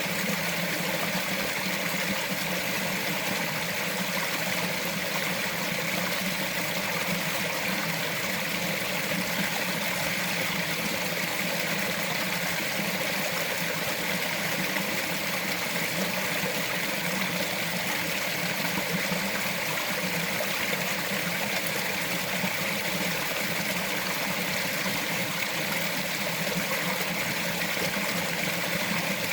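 Small mountain forest stream flowing and trickling over rocks, a steady, unbroken babble.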